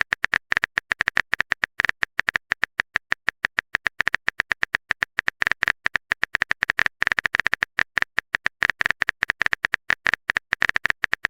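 Rapid, irregular keyboard-typing clicks, about eight to ten a second, as a typing sound effect for a chat message being written.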